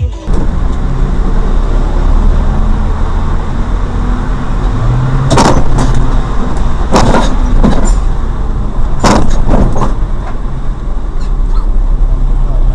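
Steady low rumble of a motor vehicle's engine and road noise, with a handful of sharp, loud knocks in the middle stretch.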